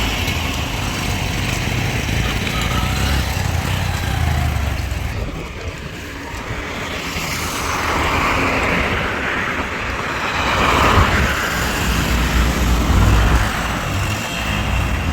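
Road traffic passing close by, a continuous rushing noise with low engine rumble, with a vehicle growing louder and going by about two-thirds of the way through.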